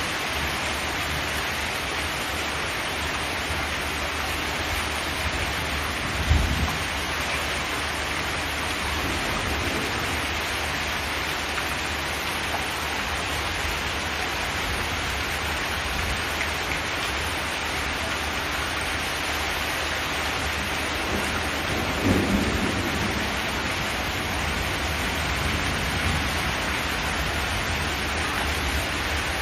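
Steady rain drumming on a zinc metal roof, with two short low rumbles rising out of it about 6 and 22 seconds in.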